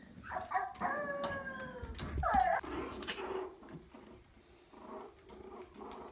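Maltese puppies crying and whining: a string of short, high-pitched cries, one falling in pitch about a second in and a louder one just past two seconds, followed by softer, repeated calls.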